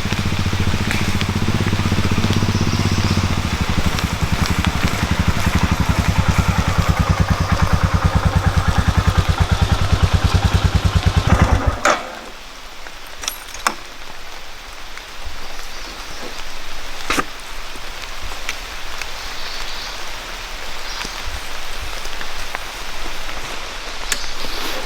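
Royal Enfield Himalayan 411's single-cylinder engine running with an even low thump, then cut off abruptly about halfway through. After that, steady rain is heard, with a few sharp drips or taps.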